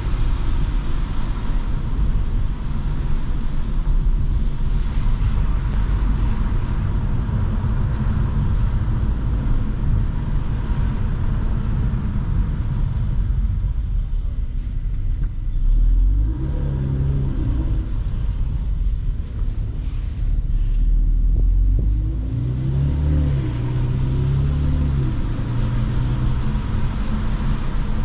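Mercedes-AMG C43 driving, its engine and exhaust running under steady road and tyre noise. Twice, once about midway and again a few seconds later, the engine note rises and falls as the car speeds up and eases off.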